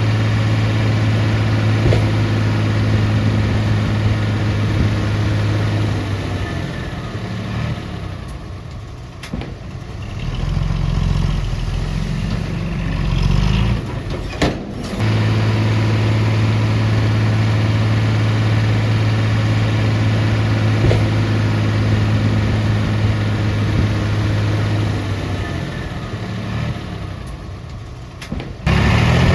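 Heavy diesel engine of earth-moving equipment running at a steady pitch. About six seconds in it fades while a deeper engine note comes up. About halfway the sound cuts off abruptly, then the steady engine note returns. It fades again near the end before another abrupt cut.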